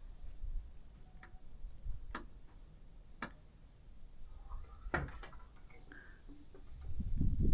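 Faint outdoor ambience: a low, uneven rumble with a few sharp, isolated ticks spaced about a second apart, and some brief faint chirps near the middle.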